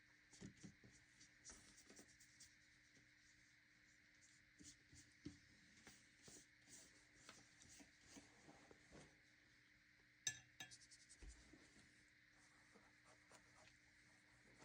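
Faint, irregular strokes of a wet watercolor paintbrush brushing across paper, with one small sharper click about ten seconds in.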